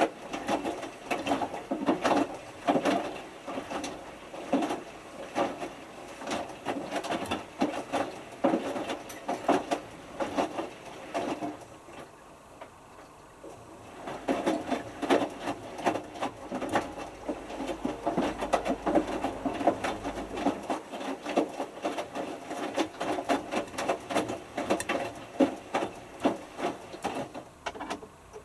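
Hotpoint Futura HF8B593 front-loading washing machine tumbling its drum in the main wash: a steady run of irregular knocks and sloshing as the wet load and water fall in the turning drum. About halfway through the drum stops for a couple of seconds, then starts tumbling again.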